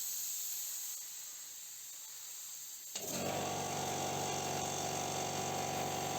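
Steady high air hiss of a paint spray gun. About three seconds in, after a click, a motor starts and runs with a steady hum alongside the hiss.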